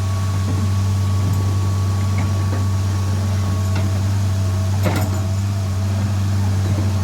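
An engine idling steadily with a low, even drone. There is a single sharp metallic knock about five seconds in, and a few faint clicks.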